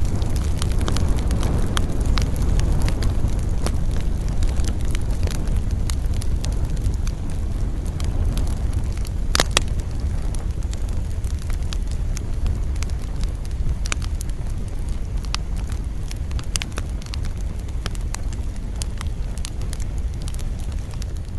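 Wood campfire burning: a steady low rush of flames with frequent sharp crackles and pops, one louder pop about nine seconds in.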